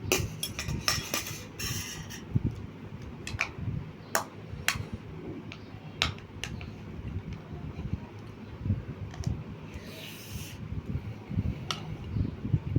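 Cutlery clinking against a plate, a scatter of sharp clicks bunched near the start and again a few seconds in, over the low close-up sounds of eating.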